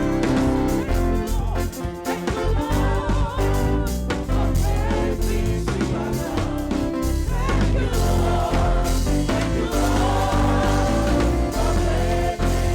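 Gospel praise-and-worship music from a live band, with drums and bass under a singing voice.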